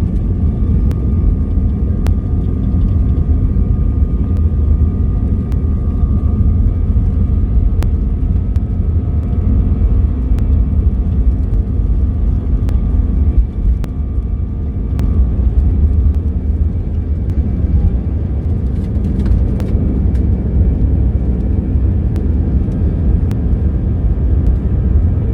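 Airbus A320 on its takeoff run, heard from inside the cabin: a loud, steady, deep rumble from the engines at takeoff power and the wheels on the runway, with a faint thin whine and light ticks over it.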